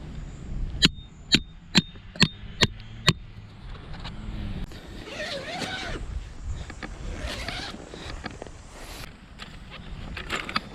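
Strong wind rumbling on the microphone. In the first three seconds it is broken by six sharp knocks, about two a second, each with a brief metallic ring.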